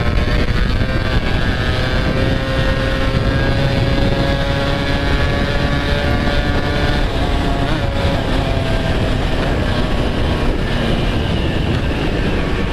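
Yamaha RX-King's two-stroke single running through an aftermarket RBK exhaust while riding, its pitch climbing slowly as it pulls, then dropping about seven seconds in.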